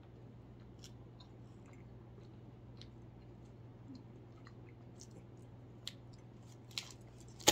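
Faint chewing of a milk chocolate bar with crunchy peanuts: small scattered crunches and mouth clicks, with a few louder crunches near the end, over a steady low hum.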